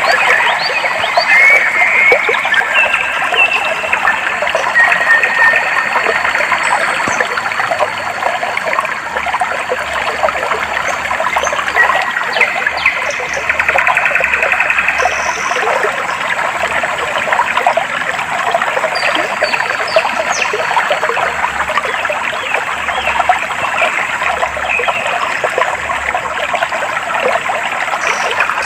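Clear stream water flowing and trickling steadily, with birds chirping and whistling over it at intervals.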